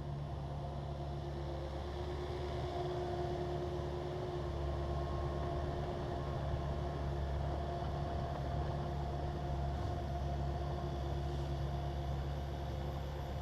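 Takeuchi TB260 excavator's diesel engine running steadily, a continuous low drone with a few held tones and no knocks or impacts.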